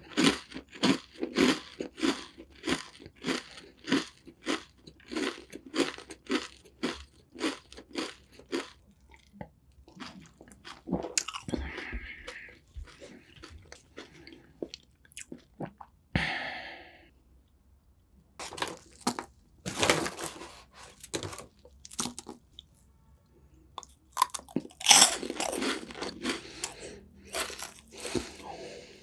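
Close-miked chewing of crunchy puffed snacks. At first it is an even run of crisp crunches, about three a second. After about nine seconds the chewing turns slower and quieter, with a few louder bursts of crunching later on.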